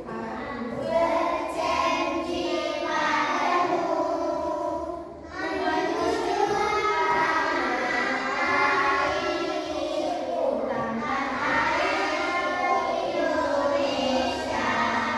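A group of children singing a song together in unison, with short breaks between phrases.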